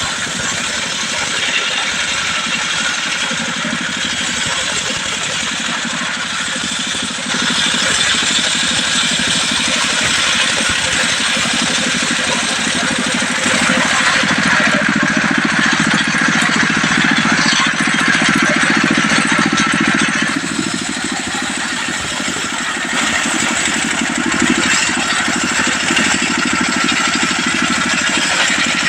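Modified diesel engine driving a mobile circular sawmill, running steadily while the saw cuts a trembesu log. The sound steps louder about a quarter of the way in, is loudest around the middle, eases briefly, then rises again near the end.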